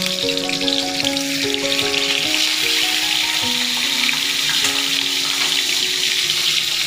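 Snakehead fish heads frying in hot oil in a steel kadai: a steady, dense sizzle. Background music of held, stepping notes plays over it.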